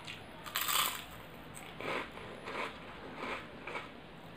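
A bite into crisp fried papad, one loud crunch about half a second in, then crunchy chewing with about four crisp chews roughly half a second apart.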